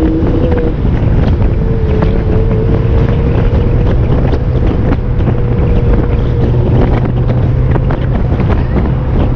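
Straight-piped Lamborghini Murcielago LP640 V12 cruising at a steady engine speed, heard from inside the car, with wind buffeting the microphone.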